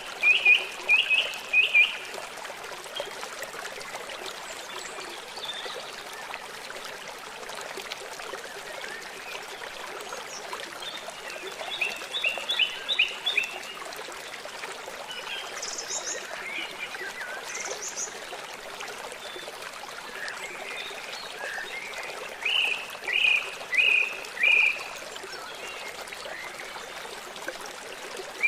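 Birds singing short phrases of quick repeated chirps over the steady trickle of a forest stream. The bursts of chirping come three times: at the start, about midway, and again near the end.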